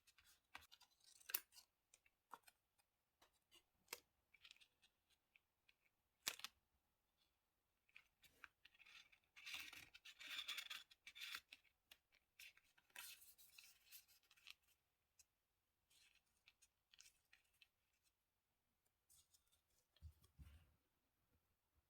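Scissors snipping paper, faint, among small clicks and paper-handling noises, with two longer stretches of paper noise in the middle and a soft low thud near the end.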